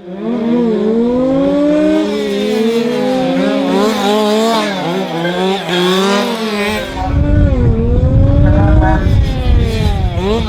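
Several radio-controlled model racing cars running together, their motors whining up and down in pitch as they accelerate and brake. A heavy low rumble joins about seven seconds in.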